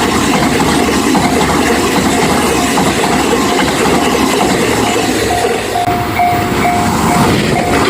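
A train running over a Japanese railway level crossing, its wheels clacking on the rails, while the crossing's warning bell rings at about two strokes a second.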